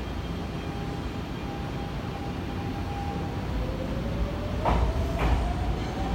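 Nankai electric train pulling out: a steady tone, then the traction motor whine rising steadily in pitch as the train speeds up, over a low rumble, with two wheel clacks over rail joints near the end.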